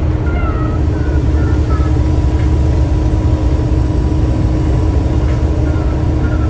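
Truck engine and road noise while driving: a loud, steady low rumble with a constant hum.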